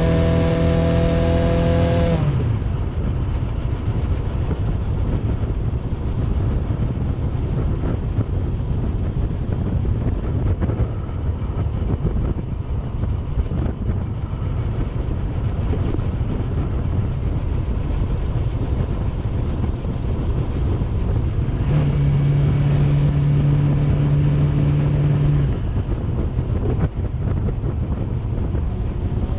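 Wind rushing over the microphone with road and engine noise from a moving motorcycle, steady throughout. A steady pitched sound stops about two seconds in, and a steady low tone sounds for about three seconds near the end.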